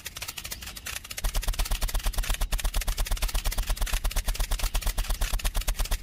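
A small engine chugging at a fast, even beat, louder and steadier from about a second in.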